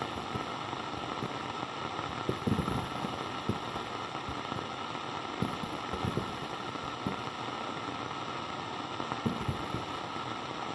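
Walkie-talkie static: a steady hiss with scattered crackles and pops, the channel open with nobody speaking.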